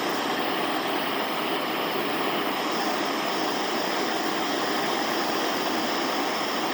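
Handheld gas torch flame running with a steady, even hiss while heating a dent in a pressurised dirt bike expansion chamber.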